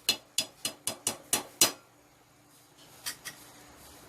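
Quick run of sharp metal taps of kitchen utensils on cookware, about four a second with a light ring. It stops after under two seconds, and one more tap comes about three seconds in.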